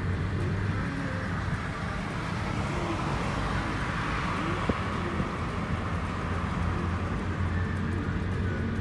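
Steady road-vehicle rumble with traffic noise, a constant low hum under a hiss, and one light click about halfway through.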